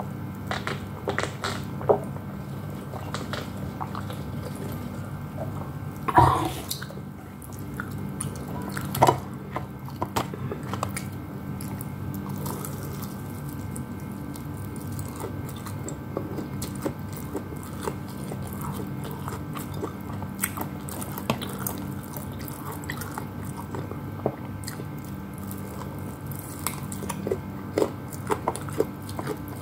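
Close-up eating sounds: biting and chewing fried chicken, with many small irregular mouth clicks and wet smacks over a steady low hum.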